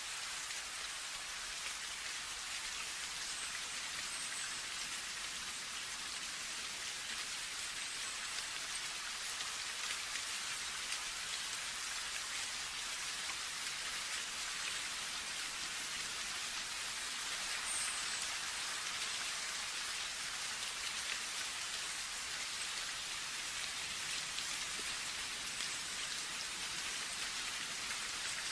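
Steady rainfall, an even hiss of many drops that holds at the same level throughout.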